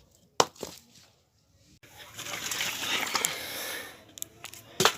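Firewood being handled: two sharp wooden knocks, then about two seconds of rustling, scraping noise, then another sharp knock near the end.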